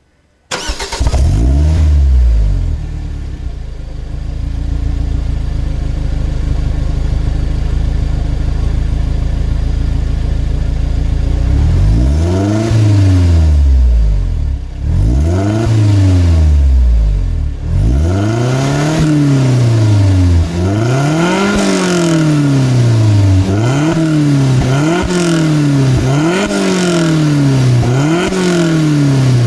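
Lotus Elise Cup 250's supercharged four-cylinder engine starting up, settling to a steady idle, then being revved in a series of about a dozen throttle blips that come quicker towards the end, heard through its exhaust.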